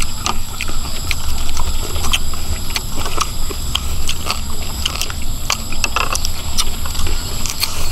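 People chewing and smacking on crunchy shredded green papaya salad, with many short wet clicks and crunches.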